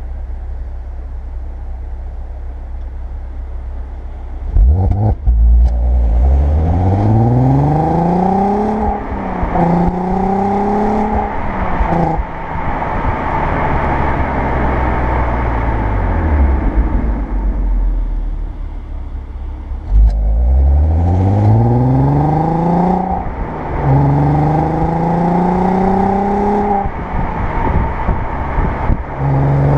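Audi A3 8P 3.2 quattro's VR6 engine through its stock exhaust, running steadily, then accelerating hard twice. Each pull climbs in pitch, dips briefly at an upshift, then climbs again; between the pulls the revs fall away as the throttle is lifted.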